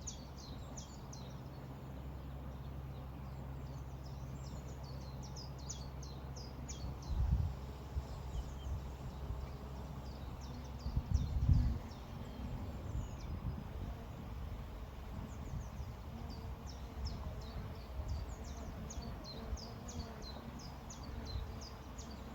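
Small songbirds chirping and twittering, many short high notes throughout, over a steady low rumble. Two louder low thumps, likely wind buffeting the microphone, come about 7 and 11 seconds in.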